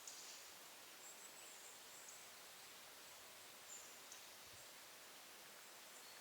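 Faint, very high, thin calls of small woodland songbirds, a few short notes scattered over a quiet forest background hiss.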